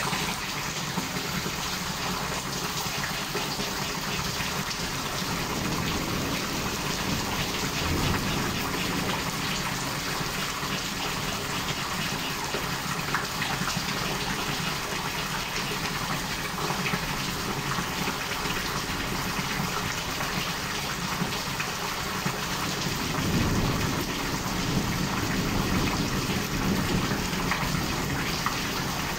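Heavy rain pouring steadily in a thunderstorm, with a low rumble of thunder about eight seconds in and a longer one from about twenty-three seconds.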